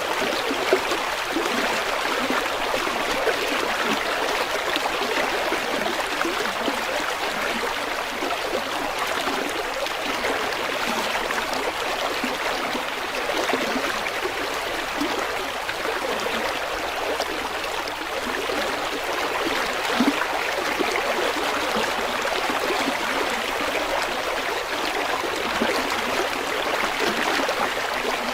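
River water flowing and babbling in a steady rush, with small splashes and gurgles.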